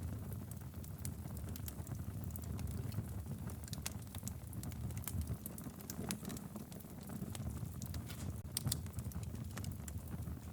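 Wood fire burning in a fireplace: a steady low rumble of the flames with irregular crackles and pops from the logs.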